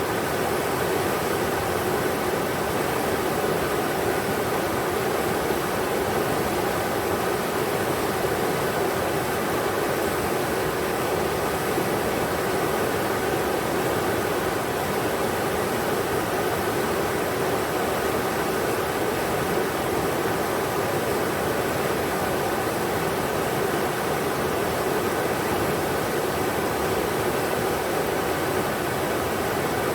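River water rushing steadily over rocks, a constant even rush with no change or break.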